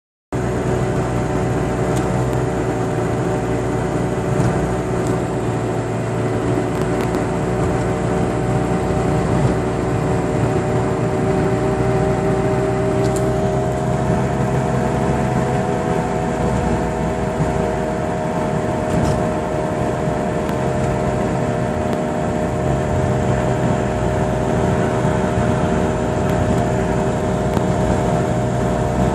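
Steady hum from a 2006 Chevrolet Cobalt on the move, over road noise, its pitch drifting up and back down midway through. The sign of a failing driver-side wheel hub bearing.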